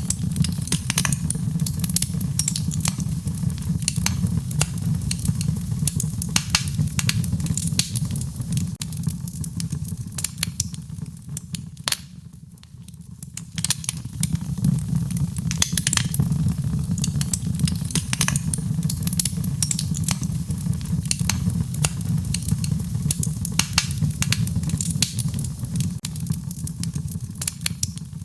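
Wood fire crackling and popping in a fireplace, with dense irregular snaps over a steady low rumble. The crackles thin out and the level dips for a moment about twelve seconds in.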